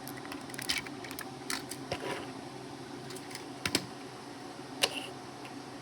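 Scattered small clicks and taps, a handful spread irregularly, of small plastic and metal toy-train parts being handled, over a faint steady hum.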